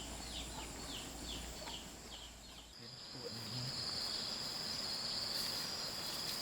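Insects trilling in a steady high whine. In the first second or two this is mixed with a run of short falling chirps, about three a second. About three seconds in, the sound cuts and a louder, steady high insect drone takes over.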